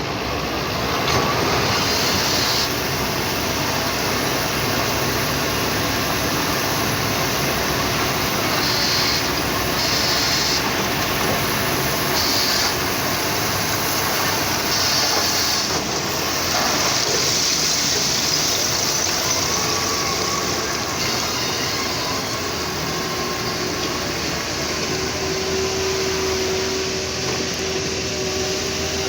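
Heavy diesel machinery, a wheel loader, running steadily under load with a dense, rough mechanical noise.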